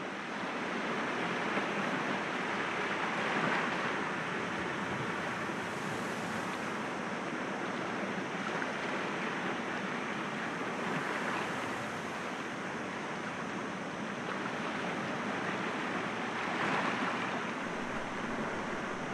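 Sea waves breaking gently against rocks: a steady wash of surf, swelling a little about three seconds in and again near the end.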